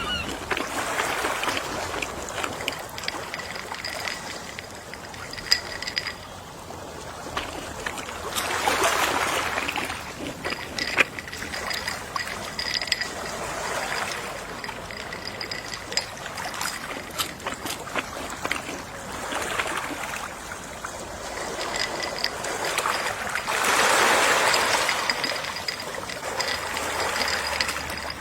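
Gentle sea waves washing onto a shore in slow swells every four to six seconds, the largest about four-fifths of the way through, with faint crackling between them.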